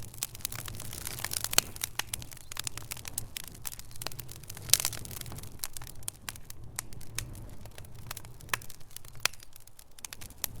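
Wood fire in a fireplace crackling, with irregular sharp pops of varying loudness over a low, steady rumble. The biggest pops come about a second and a half in and just under five seconds in.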